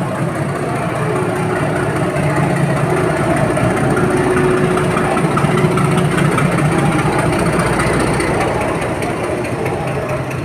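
A train running at a station platform: a steady low engine hum with a held tone above it, swelling a little in the middle and easing toward the end, as the train comes in.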